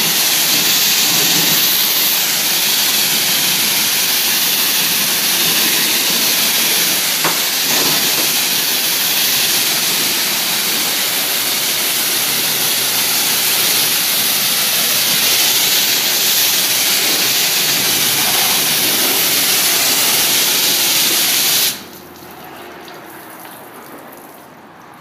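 High-pressure water spray at a car wash, a loud steady hiss that cuts off suddenly near the end.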